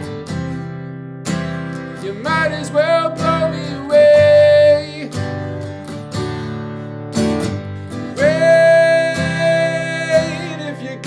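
Martin GPCPA4 acoustic guitar strummed in a steady chord rhythm. Above it a wordless sung melody holds a few long high notes, the longest near the end, bending in pitch as they close.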